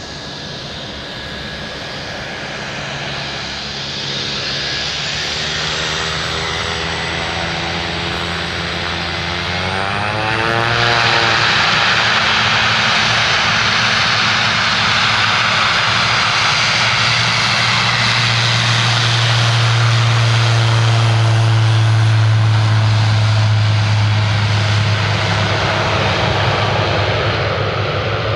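Pilatus PC-12's single Pratt & Whitney Canada PT6A-67B turboprop at takeoff power, its propeller drone growing much louder about a third of the way in. It stays loud and steady, peaks around two-thirds through, then starts to fade near the end.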